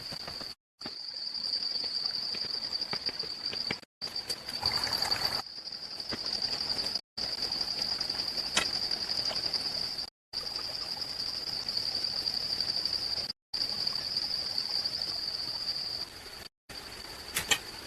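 Steady high-pitched drone of insects, broken off by brief silences every few seconds. A few sharp clicks and a short rustling burst about five seconds in stand out over it.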